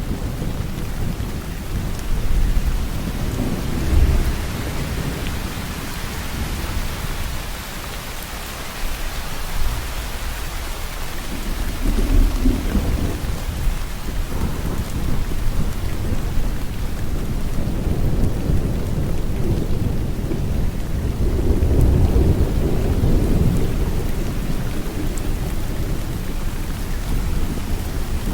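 Steady rain falling, with low rolls of thunder: one a few seconds in, another around twelve seconds, and a longer, louder roll through the second half.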